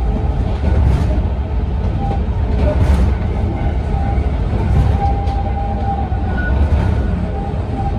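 Interior of the Sangi Railway Hokusei Line's narrow-gauge Mo 275 electric car running along the line: a steady low rumble of wheels on rail, with a thin steady whine that comes and goes and a few light clicks of the wheels over rail joints.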